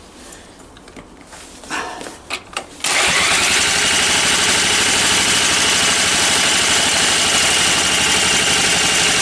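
A few knocks, then about three seconds in an electric drill starts up with a brief rising whine and spins the old engine over steadily. The engine does not fire; it has no spark and its plug is wet through with petrol.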